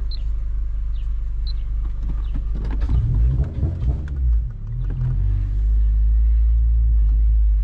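8th-generation Honda Civic Si's four-cylinder engine and road noise heard from inside the cabin while driving, as a steady low rumble. A few short knocks or rattles come in the middle, and the rumble grows louder about six seconds in.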